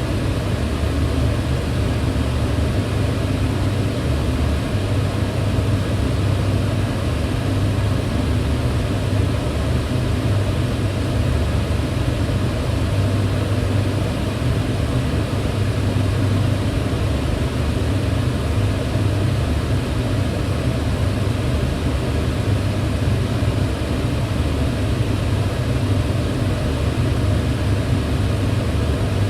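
Kitchen range hood running steadily: an even rush of air from the extractor fan over a low motor hum.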